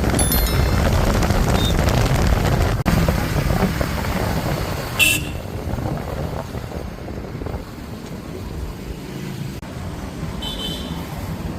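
Heavy diesel machinery engine running, louder for the first half and quieter after, with a short sharp high-pitched sound about five seconds in.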